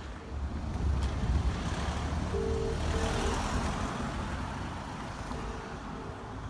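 A road vehicle passing, its engine rumble and tyre hiss swelling to a peak about three seconds in and then fading. Two pairs of short, low beeps sound along with it, one pair near the middle and one near the end.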